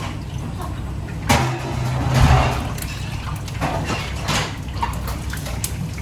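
Kitchen work sounds: water splashing and pouring, with a knock and light clatter, over a steady low hum.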